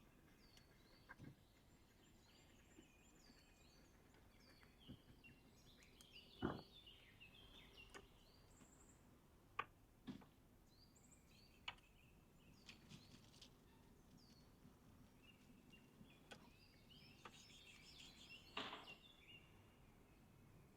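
Small birds chirping in short, quick downward-sliding notes, faint, with a few sharp clicks and knocks now and then, the loudest about six seconds in and another near the end.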